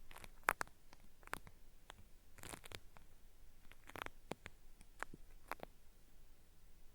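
Cotton swab rubbing and scraping at the ear of a binaural microphone, giving an irregular run of crisp, crackly peeling scratches (the 'paripari' ear-cleaning sound).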